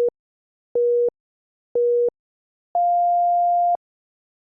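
Workout interval timer beeping the end of an interval: short, clean beeps a second apart, then one long, higher beep lasting about a second.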